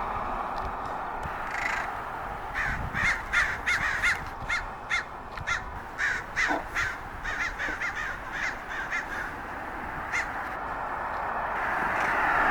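Crows cawing in quick runs of short, harsh calls, many in a row, fading out about ten seconds in. The crows are harassing a perched Cooper's hawk.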